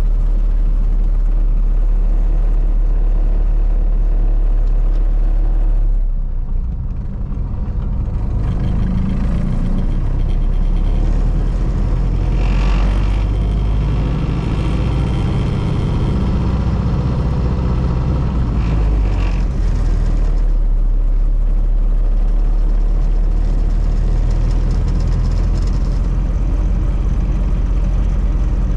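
1932 Ford Model B's four-cylinder engine running under way, with road noise: a steady low drone that eases off briefly about six seconds in, then picks up again.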